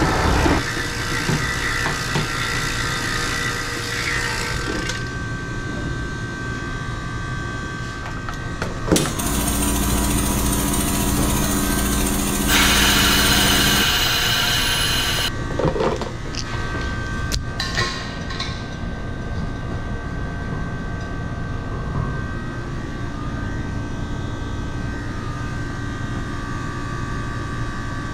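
Refrigerant gas hissing from the charging hoses for about three seconds around the middle, over a steady machine hum, with scattered clicks and knocks.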